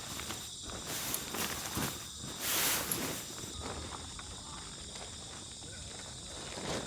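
Crickets and other insects trilling steadily, with scattered light rustles and knocks and one louder rustle about two and a half seconds in.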